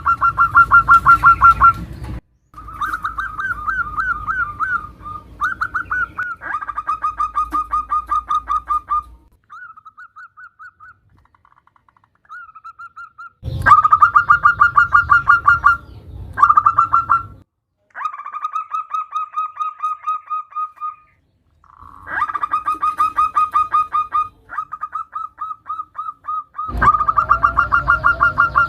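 Zebra dove (perkutut) cooing in rapid trilled phrases of quick repeated notes, each phrase a second or three long with short pauses between. A female calling to a male.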